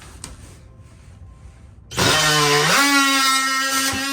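Handheld electric power tool, used to cut out a piece of baseboard, starts up about two seconds in: a loud motor whine that jumps up in pitch and then holds steady.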